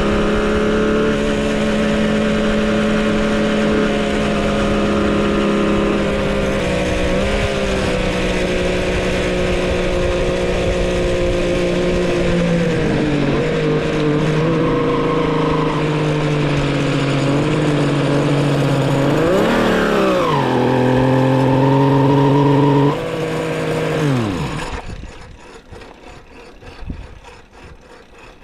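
Homemade three-cylinder two-stroke engine running steadily at a constant pitch, settling lower about halfway through. Near the end it gives a short rev up and back down, then falls away in pitch and stops, leaving only faint rustling.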